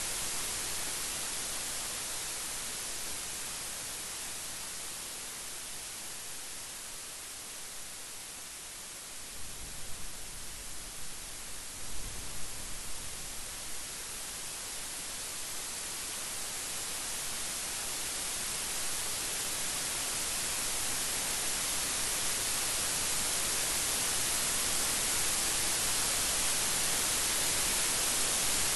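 Steady rain, an even hiss that eases a little and then swells again toward the end, with a few low rumbles of thunder about ten to thirteen seconds in.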